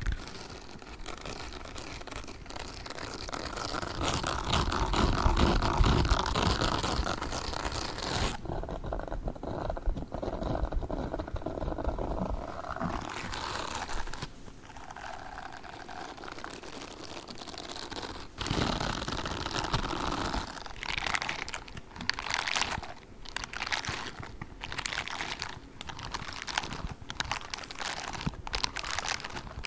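Gray spiky gloves being rubbed and scratched, a continuous crinkly, scratchy texture. In the last third it breaks into a run of quick, separate strokes.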